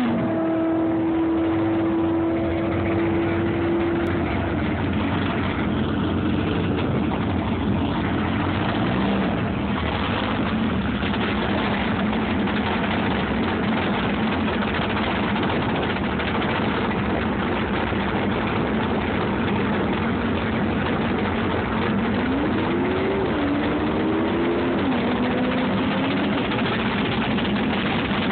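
Drag-racing car engines running, loud and steady. In the first few seconds a car holds a steady high-rev note through its burnout, and a few revs rise and fall about 22 seconds in.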